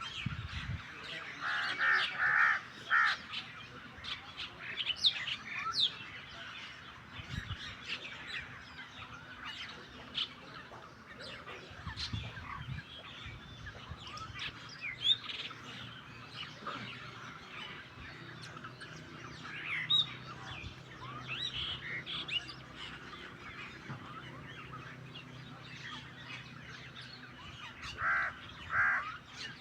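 Starlings and mynas chirping and chattering, with bursts of loud, harsh calls about two seconds in and again near the end.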